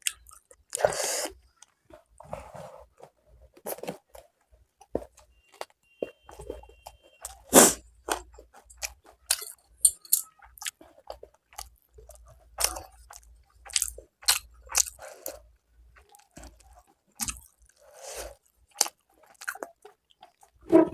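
Close-up chewing and crunching of a mouthful of rice mixed with fried fish fat and onion (macher tel bhaja), with irregular sharp crunches and wet mouth clicks.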